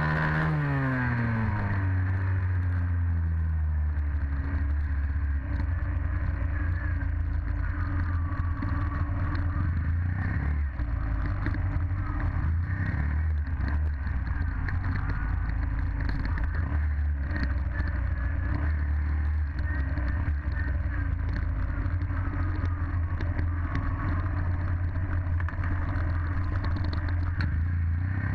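Dirt bike engine running. Its revs drop sharply in the first second, then it holds a steady low drone.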